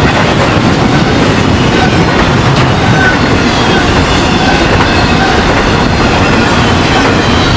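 A train rolling past, with a loud steady rumble and clatter of steel wheels on the rails. Faint brief wheel squeals come and go.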